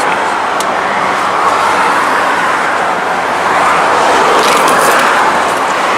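Highway traffic passing close by: a steady rush of tyre and engine noise that swells as vehicles go past, loudest in the second half.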